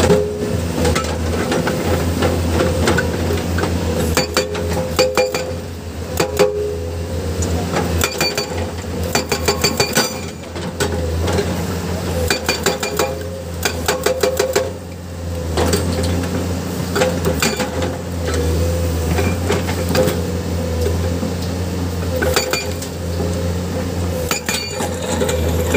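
Diesel engine of heavy earthmoving equipment running steadily, with runs of rapid metallic clinks and knocks of steel striking rock.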